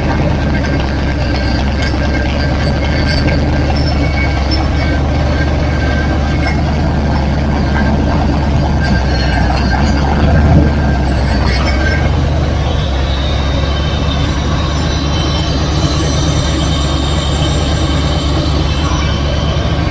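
395-cubic-inch engine running steadily on an engine dyno, fed by an EFI test rig, a loud low drone with a brief swell about ten seconds in.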